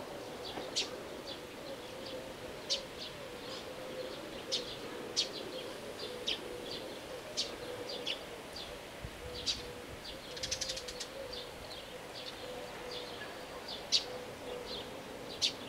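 Birds chirping in short, scattered high calls, with a quick trill about ten seconds in, over a steady faint low hum.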